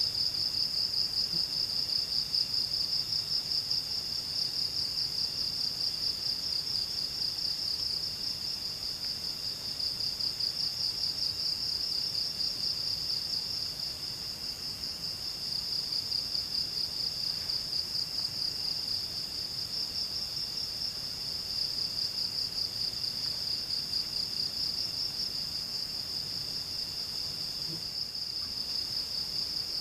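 Forest insect chorus: a steady, fast-pulsing high-pitched trill, with a second, fainter trill that breaks off and restarts every few seconds.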